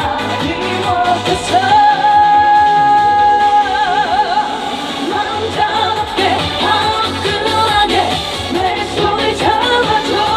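A woman singing a Korean trot song live over an amplified band backing, holding one long note about two seconds in that ends in vibrato.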